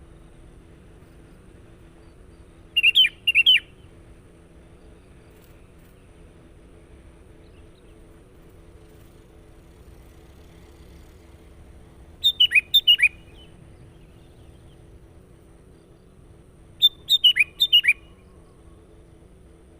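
Sooty-headed bulbul (kutilang) calling: three short bursts of quick, falling whistled notes, several seconds apart, over a faint steady background hum.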